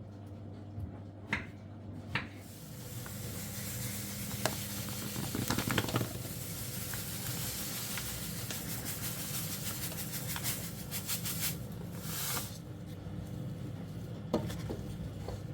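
A steady hiss with scattered clicks and ticks, starting a couple of seconds in and cutting off sharply near the end, over a low steady hum.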